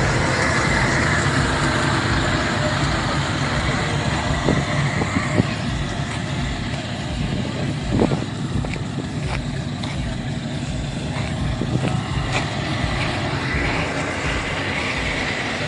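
A motor vehicle's engine running steadily, a low rumble under an even outdoor hiss, with a few short knocks about five and eight seconds in.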